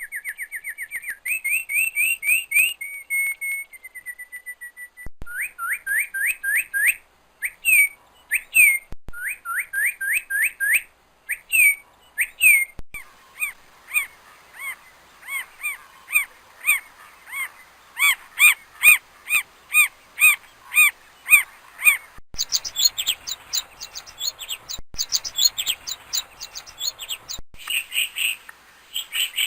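Songbird singing: phrases of quick, repeated rising whistled notes, several a second, with short pauses between phrases. About 22 s in the song changes to higher, falling notes over a faint hiss.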